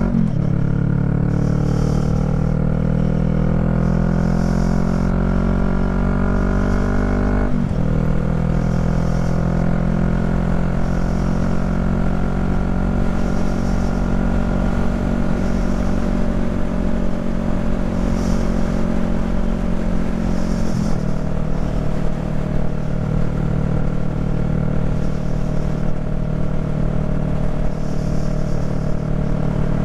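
Honda Rebel 500 parallel-twin engine with an aftermarket exhaust, pulling under load and shifting up: the pitch climbs slowly, drops sharply with a gear change about seven seconds in and again about twenty seconds in, then holds at a steady cruise.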